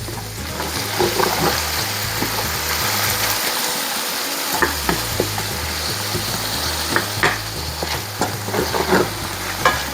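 Tomatoes, garlic and onion sizzling as they sauté in a pot while a utensil stirs them, with scattered light knocks of the utensil against the pot.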